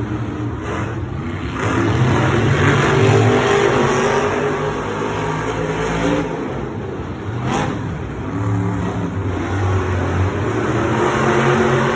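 Monster truck engines revving hard and running under load, their note stepping up and down. There is a single sharp bang a little past the middle.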